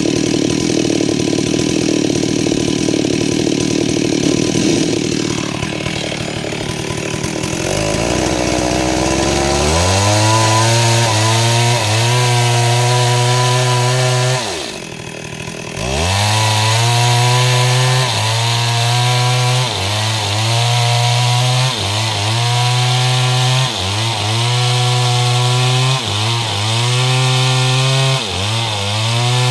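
STIHL MS 382 two-stroke chainsaw with a 30-inch bar cutting mahogany. It starts with a rough cutting sound; from about a quarter of the way in the engine rises and holds at high revs, its pitch dipping briefly every couple of seconds, with a short drop in speed near halfway.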